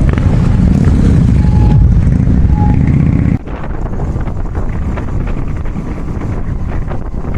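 Motorcycle engine rumbling on the move, with wind on the microphone. A little over three seconds in, the sound drops suddenly and gets quieter, leaving mostly wind rush and a lighter engine sound.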